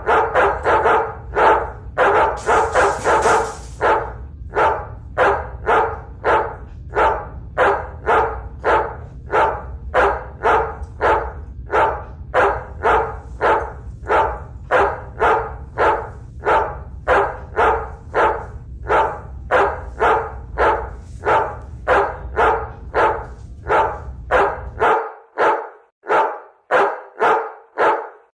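Battery-powered stuffed toy dog barking over and over in a very even rhythm, about two barks a second. A low hum underneath cuts off near the end.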